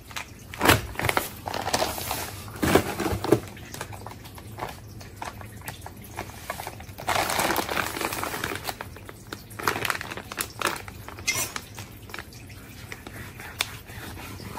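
Plastic meat packaging being handled, crinkling and rustling, with scattered clicks and taps and a longer rustle about halfway through.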